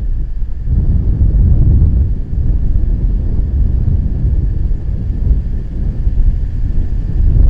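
Strong gusting wind buffeting the microphone: a loud, deep rumble that swells and dips from gust to gust.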